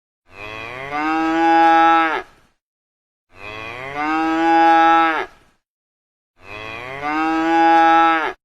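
A cow mooing: three long moos of about two seconds each, spaced about three seconds apart and identical in shape. Each moo swells in its first second, holds steady, then drops off.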